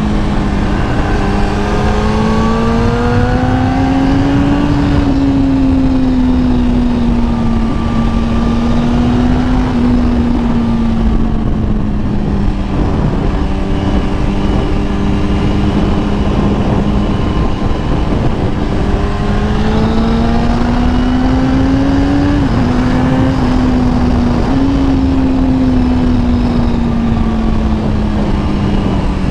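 Kawasaki ZX-10R inline-four engine running under way at steady cruising speed, its pitch rising gently with the throttle twice and easing back in between, over a steady rush of wind noise.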